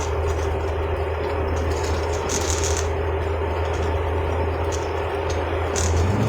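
Vehicle engine running steadily with a low hum, heard from inside the cab with road noise. Near the end the engine note steps up higher and louder as the vehicle speeds up.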